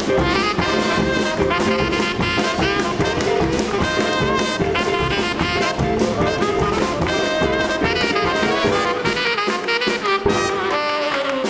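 Live band playing an instrumental break with no vocals: saxophone and brass horns carry the melody over bass and drums.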